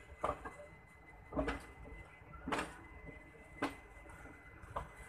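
Passenger train coaches rolling past, their wheels clacking over rail joints about once a second over a low rumble.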